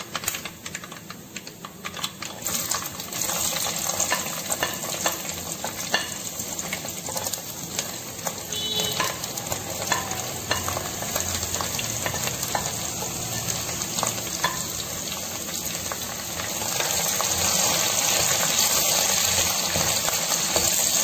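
Garlic, ginger and green chillies frying in hot sesame oil in a clay pot: a steady sizzle with many sharp crackling pops, and a wooden spatula stirring through them. The frying grows louder about three-quarters of the way through.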